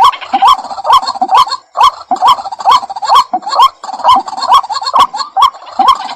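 White-breasted waterhen calling: a rapid, insistent series of harsh rising notes, about two to three a second, with a brief pause about two seconds in.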